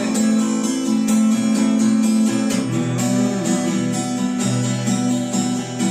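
Music: acoustic guitar strumming chords in a steady rhythm, with no singing.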